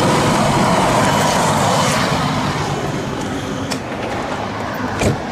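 Road traffic noise with a vehicle engine running, easing off slowly. There is a sharp click about three and a half seconds in and a thump about five seconds in.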